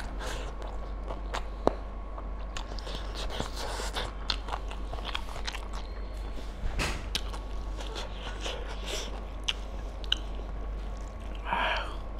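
A person chewing a mouthful of mutton curry and rice, with many short smacking mouth clicks. Near the end there is a brief squishing as a handful of curried rice is gathered by hand.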